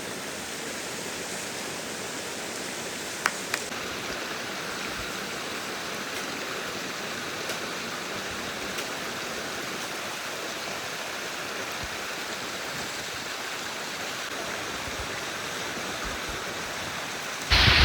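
Steady rush of running water. Two short sharp clicks about three seconds in.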